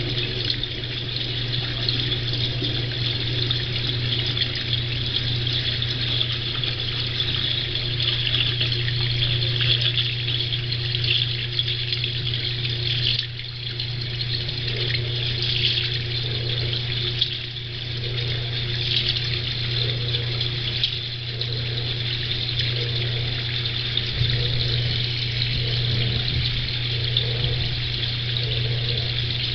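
Water flowing steadily through a heel-inlet sewer elbow: a continuous rushing of water with a steady low drone underneath.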